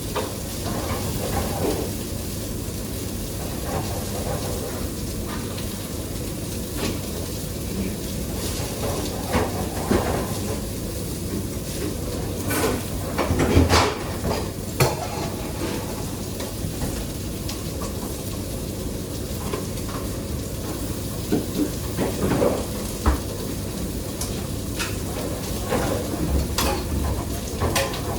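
Food frying in a pan, a steady sizzle, with scattered clinks and knocks of utensils against cookware, the loudest a cluster about halfway through.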